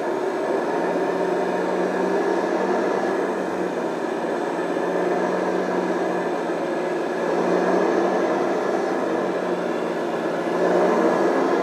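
1/14-scale RC hydraulic bulldozer running steadily while it pushes sand: its hydraulic pump and drive motors whirring with a held low hum.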